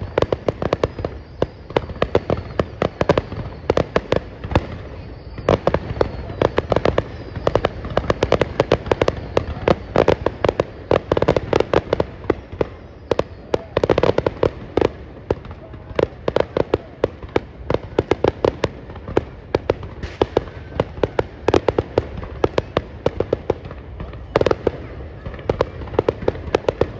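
Fireworks going off in a dense, continuous barrage of sharp bangs, many each second.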